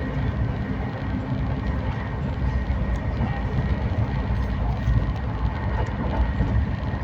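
Moving passenger train running along the track, a steady rumble of wheels and carriages with a faint steady whine above it.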